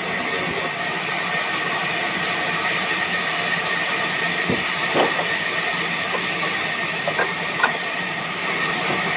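Woodworking machinery running steadily: a continuous hiss with a steady high tone, and a few light knocks and clicks in the second half.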